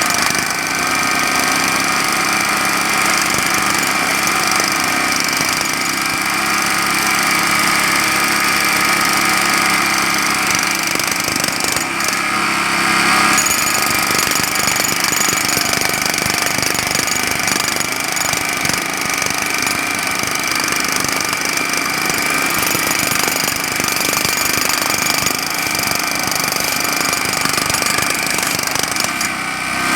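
Jackhammer breaking pavement in a continuous rapid rattle of blows, with a generator's engine running steadily underneath.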